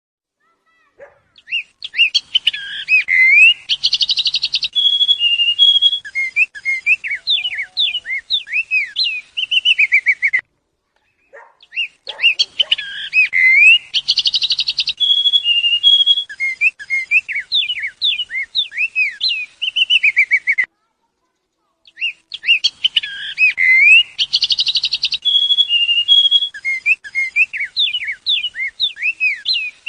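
A songbird singing a rapid run of whistled, slurred notes with a brief buzzy trill, the same nine-second stretch of song heard three times with silent breaks between, as a looped recording.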